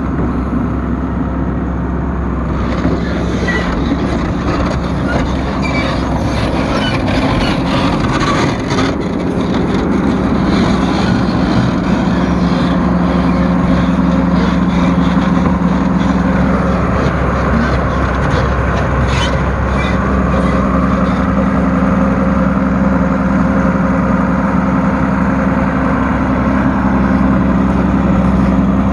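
A large diesel engine running steadily under light load, with scattered clanks and rattles through the first ten seconds or so.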